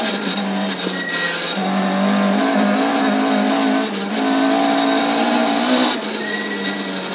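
Ford Escort rally car's engine running hard at speed, heard from inside the cabin over gravel road noise; the engine note drops briefly about four seconds in and again near six seconds.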